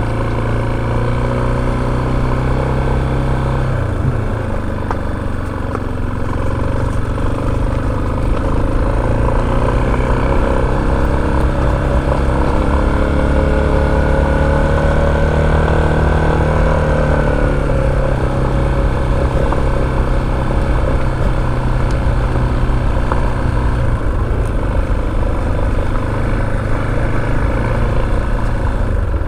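Motorcycle engine running as the bike is ridden. Its pitch climbs gradually for several seconds midway, then drops back and stays steady.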